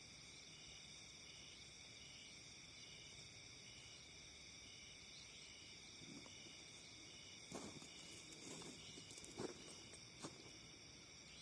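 Chorus of crickets and other insects: steady high chirring in several layers, one of them pulsing regularly. A few faint rustles and taps come in the second half.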